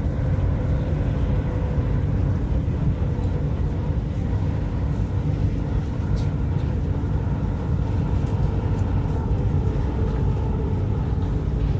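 Steady low rumble and hum inside the cabin of the Whoosh high-speed train (a KCIC400AF trainset) running on the line.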